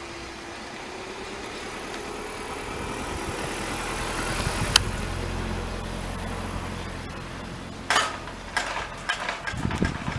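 An engine running steadily with a low hum. A single sharp click comes just before the halfway point, and a series of sharp clicks and knocks starts about eight seconds in.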